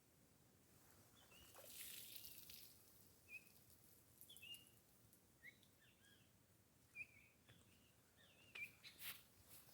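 Faint, scattered bird chirps, short rising and falling calls every second or so over quiet outdoor ambience, with a soft rush of hiss about two seconds in and a few sharp clicks near the end.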